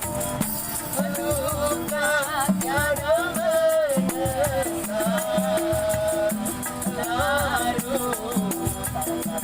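Street busker's song: a wavering, ornamented melody sung over an accompaniment with a steady low beat and a fast shaker-like rattle.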